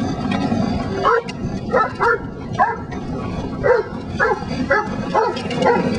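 A small dog yipping and barking repeatedly, short high calls about every half second, over a steady low rumble.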